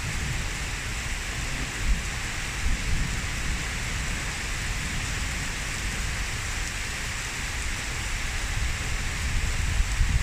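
Heavy rain pouring down in a steady, dense hiss, with an uneven low rumble underneath.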